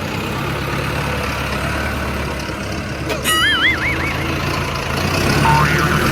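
A small engine running steadily with a low drone. About three seconds in, a warbling cartoon-style whistle sound effect glides up and down for about a second.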